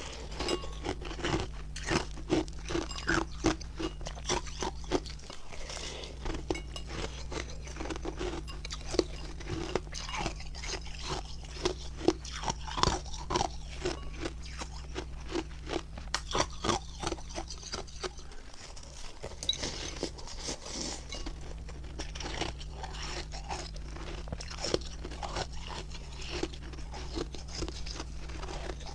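Refrozen ice being bitten and chewed close to the microphone: a quick, uneven run of sharp crunches and cracks.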